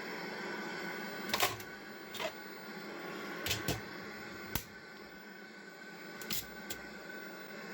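Scattered sharp clicks and knocks of hands working on the VCR's mechanism and parts, about seven in all, over a steady background hum.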